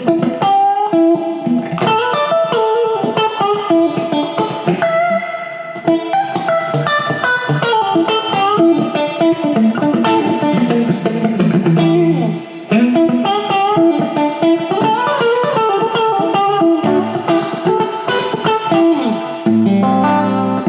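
PRS SE Silver Sky electric guitar with single-coil pickups, played straight into a Fender Deluxe amp: a flowing run of single notes and chord fills, with a short break about twelve seconds in and fuller chords near the end.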